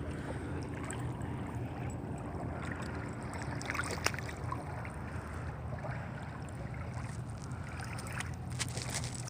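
Steady outdoor noise of shallow water and wind on the microphone, with a low steady hum underneath and a few light taps or splashes around four seconds in and again near the end; it cuts off suddenly.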